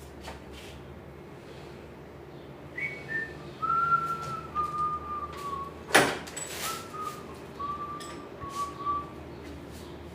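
A person whistling a slow tune in held notes that slide down a little at their ends. A single sharp click sounds about halfway through, with a few fainter clicks around it.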